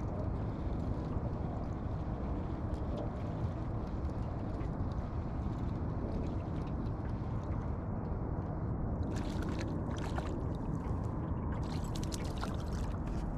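Boat motor running steadily under the noise of water around the hull while trolling. From about nine seconds in, a run of short sharp crackling or splashing noises.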